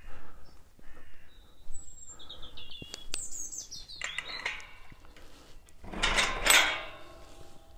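Wild birds chirping and singing, with a quick descending run of high notes about three to four seconds in. About six seconds in, a brief loud rush of noise is the loudest sound.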